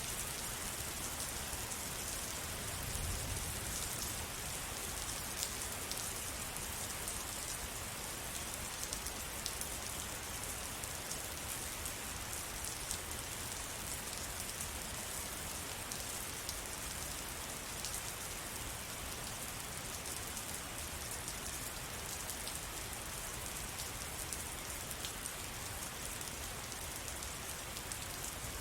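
Steady rain falling, with many distinct drops ticking on surfaces close by. A soft low rumble comes up briefly about three seconds in.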